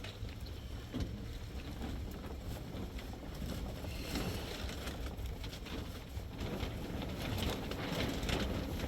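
Wind buffeting the microphone: a steady low rumble with a hiss over it that swells somewhat in the second half.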